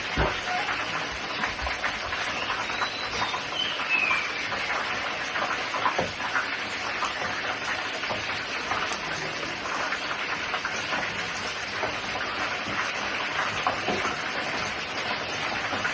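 Sausages frying in hot oil: a steady sizzle with many small crackling pops.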